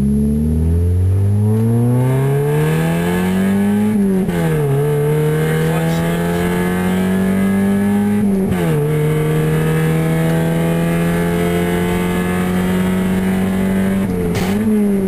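Mazda Miata's four-cylinder engine through an open exhaust with no muffler, accelerating. The pitch climbs, drops sharply at gear changes about four seconds in and again about eight and a half seconds in, then rises slowly. There is a brief dip and recovery near the end.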